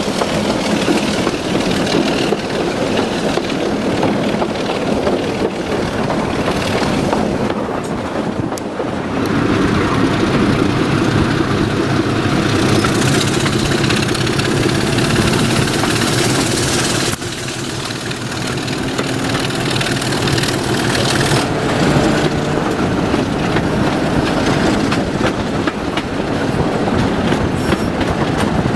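Diesel locomotive hauling a train: its engine running steadily while the wheels click over the rail joints, with a brief dip in loudness a little past halfway.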